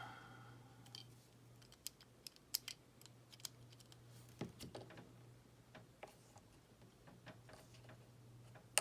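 Faint, scattered small clicks and taps of plastic and metal die-cast model parts and a screwdriver being handled while the screws are checked for tightness, over a low steady hum.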